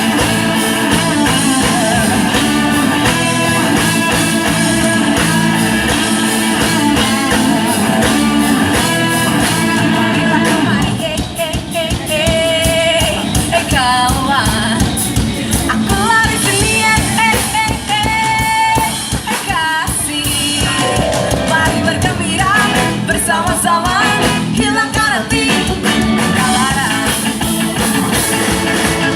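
Ska band music with a lead singer, guitar-driven and upbeat. It thins out for a while near the middle, where the vocal line stands out, then the full band comes back in.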